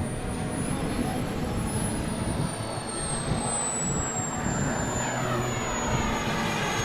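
Turbine engine of a radio-controlled L-39 Albatros model jet running hard, a rushing hiss with a thin high whine that slowly falls in pitch over the second half, as on a takeoff roll or pass.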